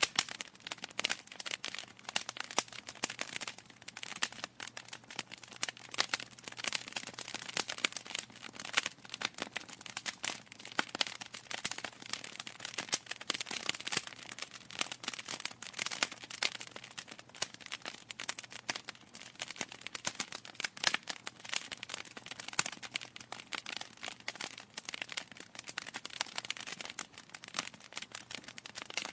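Wood logs burning in a fireplace, crackling steadily with a dense, irregular run of sharp pops and snaps.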